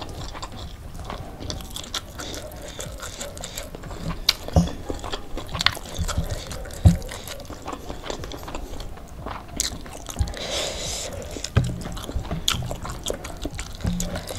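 Close-up eating sounds of crispy fried chicken and rice: bites, crunches and chewing, with sharp crunches scattered throughout and a few louder ones in the first half. A short hiss comes about two-thirds through.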